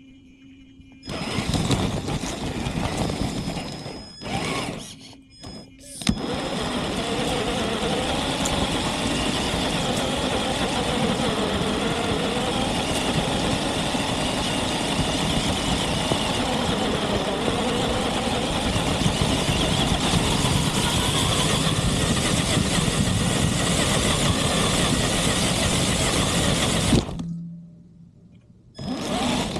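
Traxxas TRX4 RC crawler driving, its electric motor and drivetrain making a steady noisy drone close to an onboard camera. The drone starts about a second in, breaks off briefly twice a few seconds later, then stops for about two seconds near the end before picking up again.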